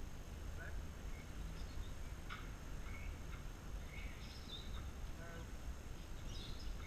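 Scattered short bird chirps over a steady low outdoor rumble.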